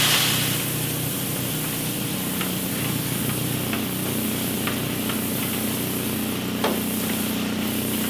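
Coffee roasting machine running: a steady mechanical hum under an even rushing noise, with a few scattered light clicks. A loud hiss fades out in the first half-second.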